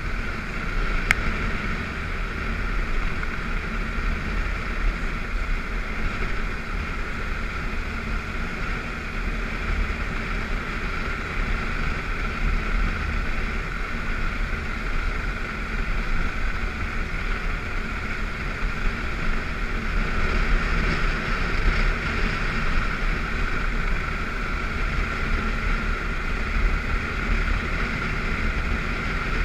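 BMW F650GS dual-sport motorcycle engine running steadily under way on a dirt road, with wind rushing over the microphone.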